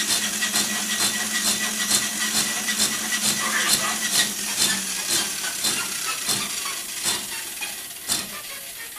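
A machine running with a steady hum and a hiss, with a regular click about twice a second; it fades away near the end.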